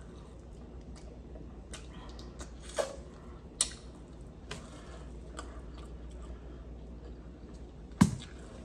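Close-up chewing of fried chicken, with scattered wet mouth clicks and smacks as meat is picked off the bone and eaten. A sharper knock comes near the end.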